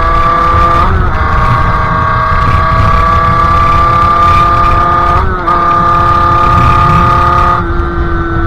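Sherco 50cc two-stroke engine with a KRM expansion exhaust held at high revs while riding, a steady high-pitched buzz. It dips briefly twice, about a second in and again about five seconds in, as gears are changed, and eases off slightly near the end.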